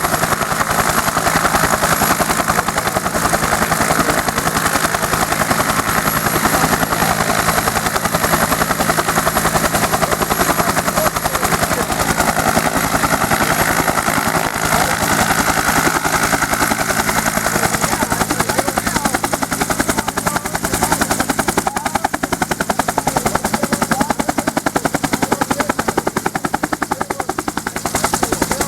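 UH-1 Huey helicopter running steadily, its turbine and two-blade main rotor making a loud, rapid, even chop.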